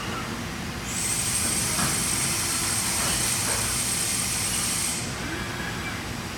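DMG MORI DMU-50 5-axis machining center running with a steady machine hum. About a second in, a loud, high-pitched whine and hiss set in and hold steady, then stop about a second before the end.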